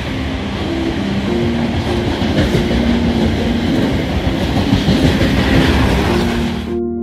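Freight train's box wagons rolling past on the rails, a loud, steady rolling clatter. It cuts off suddenly near the end and piano music takes over.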